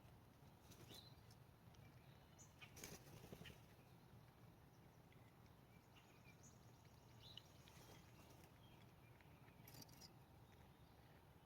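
Near silence: faint outdoor ambience with a few soft, brief bird chirps and small clicks, and a short rustle about three seconds in.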